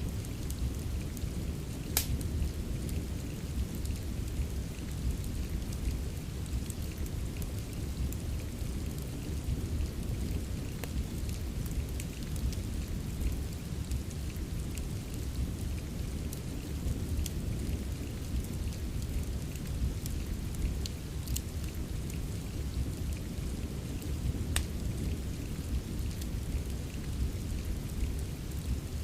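Steady rain with a deep, even rumble, mixed with a wood fire in a fireplace whose crackles come as scattered sharp clicks. The loudest crackles fall about two seconds in and near twenty-five seconds.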